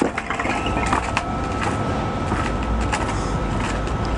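A thrown concrete cinder block strikes the foam-reinforced shelter with a sharp hit at the start, followed by a couple of smaller knocks about a second in, over a steady low rumble.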